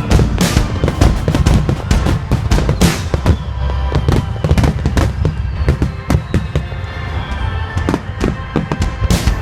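Fireworks bursting in a rapid barrage, many sharp bangs and crackles close together, mixed with music.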